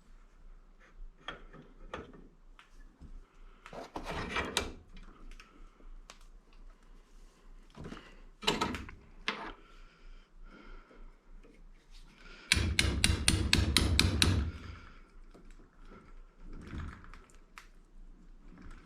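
Hammer and punch knocking on an electric motor's stator to loosen the copper windings. Scattered knocks and clanks give way, about two-thirds of the way through, to a rapid run of about a dozen sharp strikes lasting under two seconds, the loudest part.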